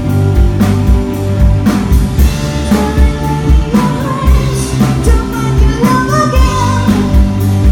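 Rock song with a steady drum-kit beat, bass and guitar; a singing voice comes in around the middle.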